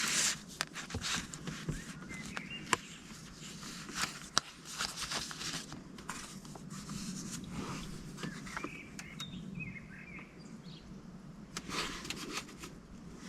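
Paper cards and stickers being handled: rustling with scattered light clicks and taps.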